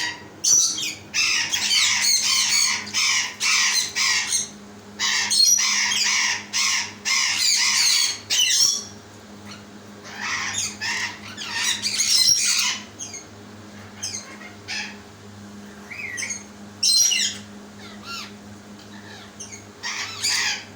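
Blue-fronted Amazon parrot squawking: quick runs of harsh calls for the first half, then scattered calls, over a steady low hum.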